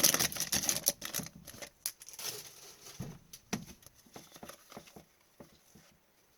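Hockey trading cards being handled and flipped through: quick small clicks and rustles of card edges, busiest in the first second, then sparse ticks.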